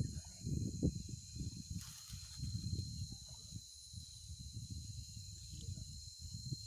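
Irregular low thuds and rustling, like footsteps and handling noise on a trail, under a steady high-pitched insect drone.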